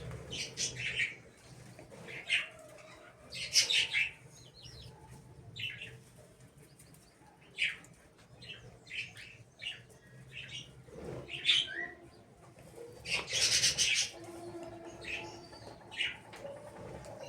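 Small birds chirping in short, scattered calls, with a few louder bursts of wing flapping.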